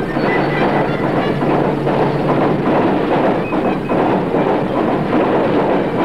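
Film soundtrack of a bullet train rushing past, a steady loud rumbling rush, played back from a worn super 8 print's magnetic sound track through an Eumig S 9100 projector.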